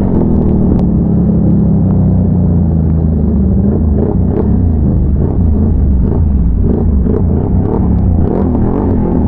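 ATV engine, a big-bore Can-Am Renegade V-twin, running steadily at low, even revs, with a few short knocks about four and eight seconds in.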